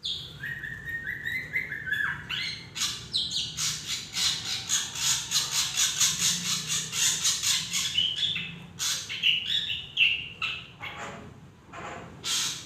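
Drongo singing a varied song: short whistled notes stepping up in pitch, then a fast run of harsh chattering notes, about five a second, then more clear whistles and a few sharp notes near the end.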